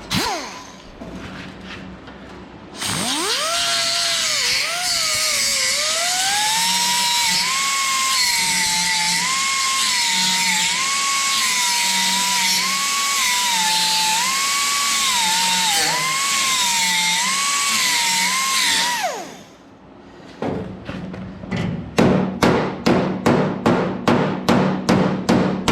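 Angle grinder spinning up and grinding the rusty steel fender for about sixteen seconds, its pitch dipping and recovering as the disc bites, then winding down. Near the end, a quick run of hammer blows on sheet metal, about three a second.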